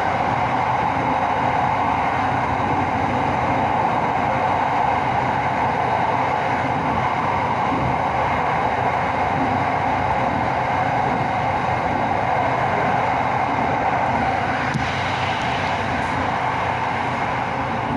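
Electric commuter train of Bangkok's SRT Red Line running steadily at speed, heard from inside the carriage.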